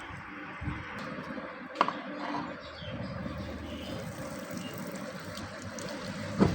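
Two sharp metal knocks, about five seconds apart, the second louder, each ringing briefly, over a steady running noise.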